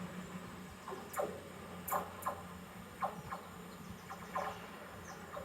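Faint railway station ambience: a low steady hum, with short chirping sounds about once a second.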